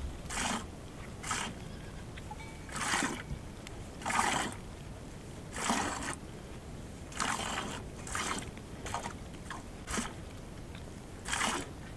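Crunching footsteps in snow: slow, uneven steps, one every second or so.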